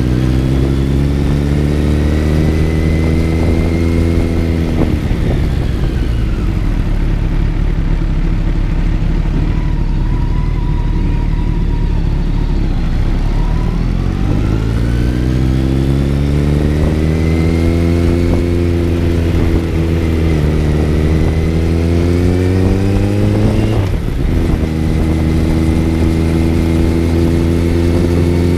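Kawasaki Z900's inline-four engine heard on board while riding: the revs climb, drop away and hold low for several seconds, then climb again. Two short breaks, each followed by a drop in pitch, sound like upshifts, and the engine then runs steadily near the end.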